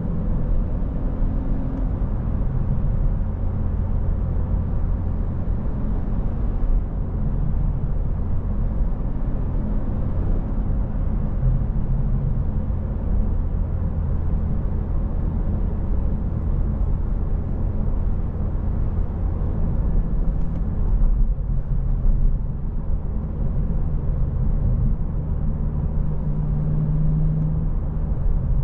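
2025 Honda Civic Si's 1.5-litre turbocharged four-cylinder engine running under way, with a steady low rumble of engine and road noise whose engine tone shifts in pitch a few times as speed and gears change.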